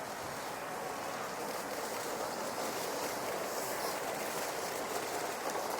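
Steady outdoor background noise, an even wash with no distinct events.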